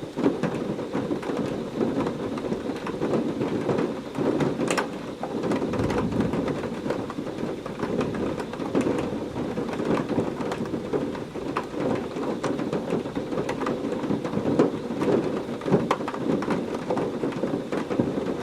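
Heavy rain pouring steadily, with many sharp drop taps and a low rumble of thunder underneath, and one louder crack about five seconds in.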